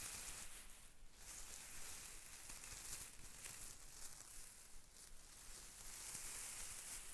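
Close-up crinkly rustling of something being handled, steady with short breaks about a second in and near five seconds.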